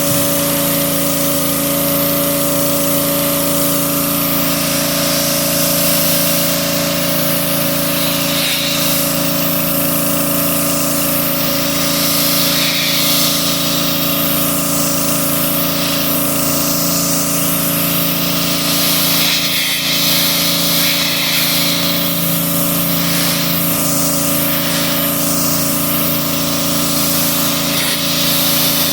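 A motor-driven pump running steadily with water spraying; the spray hiss swells and fades over a constant motor hum.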